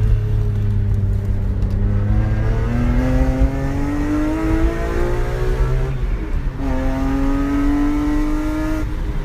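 BMW E46 M3's S54 straight-six exhaust through a Saclam Spec 3 silencer, exhaust manifold and test pipes, under acceleration: the engine note climbs steadily for a few seconds, drops sharply with a gear change about six seconds in, then climbs again before easing off near the end.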